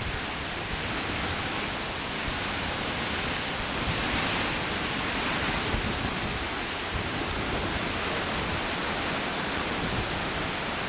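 Hurricane Wilma's wind and rain blowing hard, buffeting the microphone as a steady rush of noise that swells a little about four seconds in.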